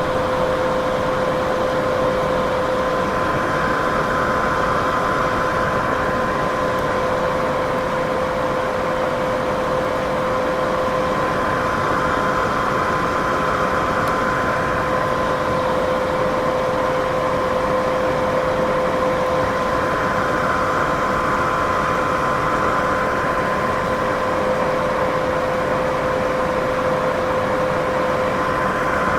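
Steady white noise with a constant hum running through it and a soft swell about every eight seconds.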